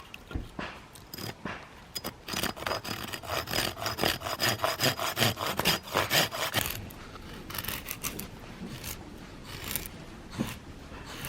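Hand saw cutting through acacia firewood: a run of quick back-and-forth strokes, about three a second, from about two seconds in until nearly seven seconds, then a few lighter scattered scrapes.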